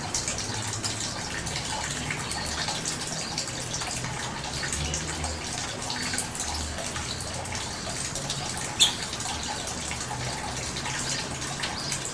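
Birds feeding: a steady patter of many light ticks and rustles, with one short high chirp about nine seconds in.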